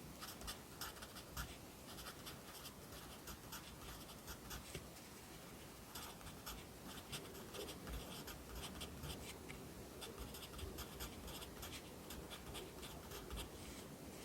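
Pencil writing Korean characters on paper: many short scratchy strokes in quick runs, with a brief pause about four seconds in and a short break near the end.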